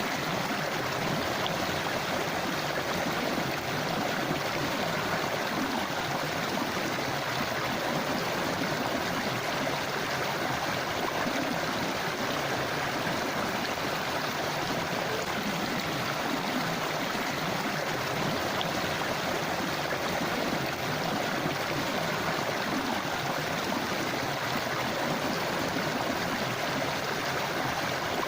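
Forest river or stream flowing steadily over rocks, a continuous rushing and gurgling of water.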